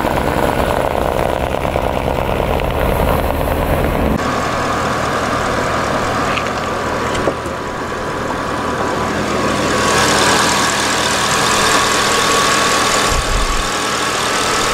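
2011 Porsche Panamera Turbo's 4.8-litre twin-turbo V8 running steadily under a loud, even rushing noise. The low rumble drops about four seconds in, and the hiss grows slightly near the end.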